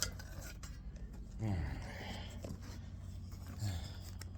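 Camera and tripod being handled: faint clicks and knocks over a steady low hum. A short low voice sound falls in pitch about a second and a half in.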